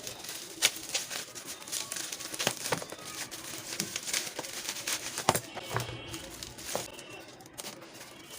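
Plastic packaging crinkling, with irregular small clicks and taps as a boxed set of watercolour brush pens is handled and unpacked.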